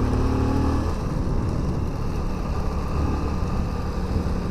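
Motorcycle running steadily on the road, with wind and road noise on the microphone; a faint steady hum fades out about a second in.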